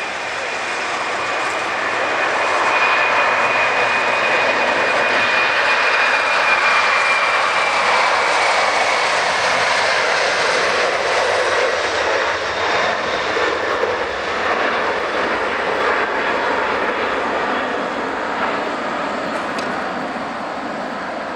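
Airliner's engines passing close by: a loud roar that swells over the first few seconds and then slowly fades, with a high whine that drops in pitch as the aircraft goes past.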